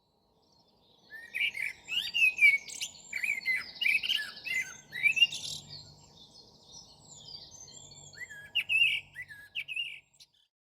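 Birdsong: quick chirps and warbling phrases, busiest in the first half, thinning out in the middle, with a few more phrases near the end.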